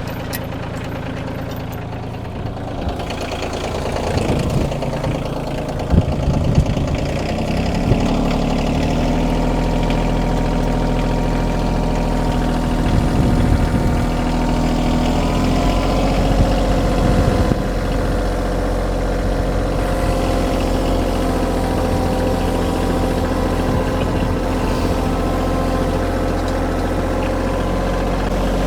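Kioti tractor's diesel engine running, with a few knocks about four to seven seconds in. The engine note then rises around eight seconds in and holds steady under load as it pulls a chain drag over the gravel.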